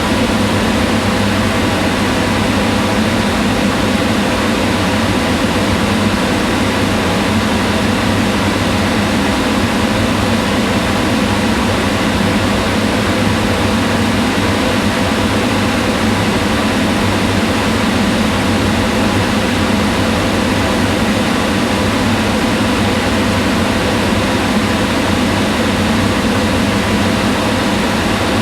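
Kitchen range hood fan running steadily: a constant whooshing hum of moving air with a faint motor drone underneath.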